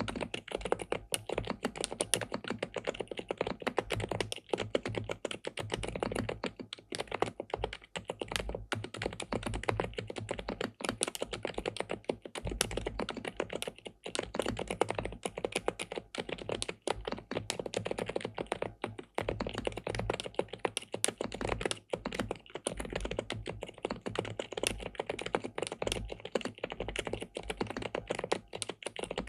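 Continuous fast typing on an SPM PL87W (Mongdol 87) mechanical TKL keyboard with linear switches and a PC plate: a dense, even stream of keystroke clacks with no pauses.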